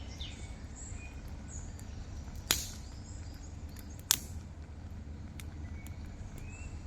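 Two sharp knocks or cracks, about a second and a half apart, each with a short ringing tail, over a steady low outdoor rumble with faint bird chirps.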